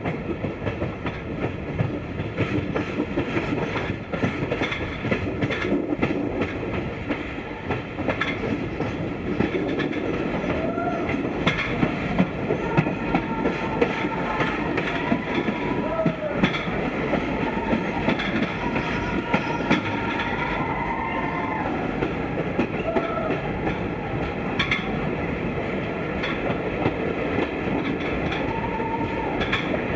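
Broad-gauge Indian Railways express coaches running along the track, a steady rumble with the clickety-clack of wheels over rail joints.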